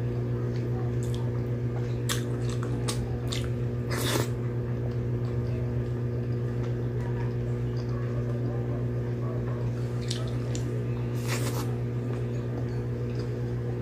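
Wet chewing and mouth squishes close to the microphone, with sharp little smacks: several between about two and four seconds in and two more after ten seconds. A steady low hum runs underneath.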